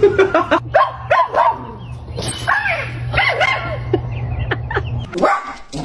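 A dog yipping and barking in a run of short, quick calls, over a steady low hum that cuts off about five seconds in.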